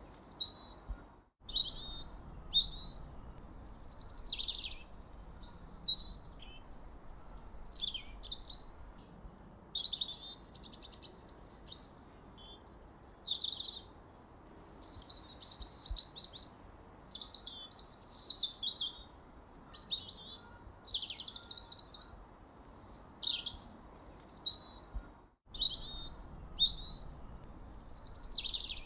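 Songbirds chirping and warbling in quick, overlapping phrases, over a faint steady hiss. The sound drops out briefly about a second in and again near the end.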